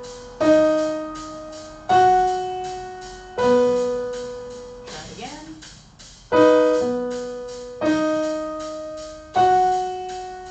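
Piano playing a slow pattern of single notes and two-note chords, six strikes about a second and a half apart with a longer pause in the middle, each left to ring and fade.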